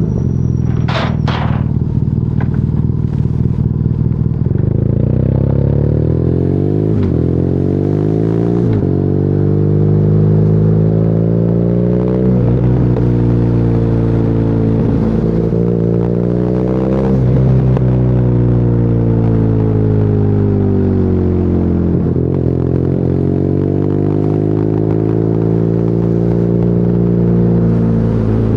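BMW R nineT's boxer-twin engine through an Akrapovic exhaust, on the move: it accelerates and eases off again and again. Its pitch climbs, breaks sharply at each gear change, and drops on deceleration. Two sharp clicks sound about a second in.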